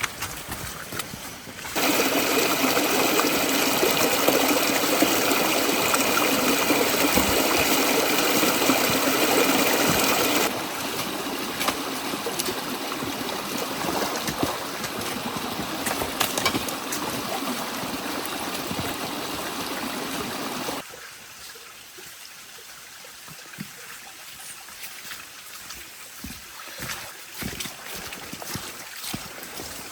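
Rain falling, a steady rushing hiss with sudden cuts between takes: loudest from about two seconds in to about ten seconds, softer after that, and quieter with scattered drips and taps over the last nine seconds or so.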